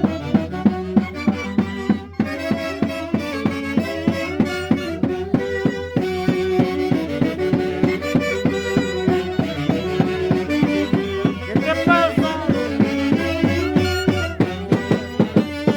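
Santiago dance music from Peru's Mantaro Valley played by a band: several melody instruments over a quick, steady drum beat.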